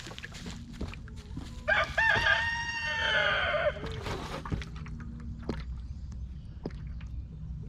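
A rooster crowing once, a single drawn-out call of about two seconds starting nearly two seconds in, with a few faint clicks and taps around it.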